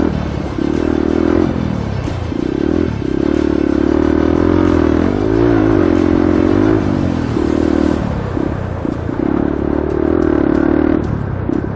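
Yamaha R15 motorcycle's single-cylinder four-stroke engine running hard under throttle, in repeated pulls whose pitch wavers and rises and falls, with brief drops where the throttle eases between them.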